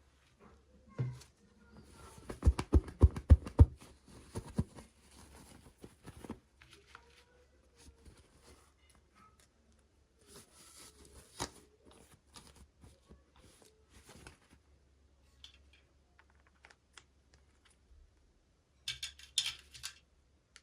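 Small plastic toy pieces and packaging being handled close to the microphone: a quick run of sharp clicks and taps about two to four seconds in, then scattered ticks and light rustling, and another short burst of rustling near the end.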